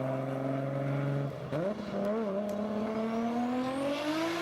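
Nissan Skyline GT-R R34 engine held at high revs, then dropping briefly about a second and a half in and picking up again, its pitch climbing steadily toward the end as it accelerates.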